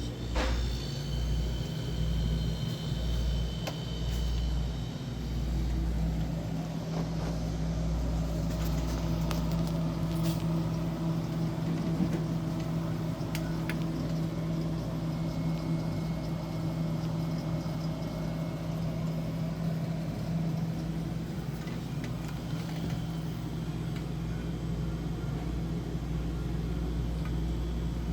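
UNICOOLA refrigerator's fan motor running with a steady hum, after a few clicks and an uneven pulsing in the first several seconds.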